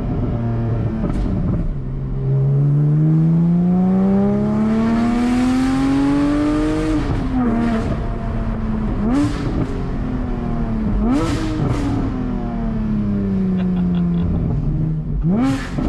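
Porsche 718 GT4's 4.0-litre flat-six, with a Soul Performance exhaust, heard from inside the cabin: one long pull climbing through the revs, a drop in pitch at a shift about seven seconds in, then short throttle blips and the note falling slowly as the car eases off, with a quick rising blip near the end. A few short sharp cracks come through along the way.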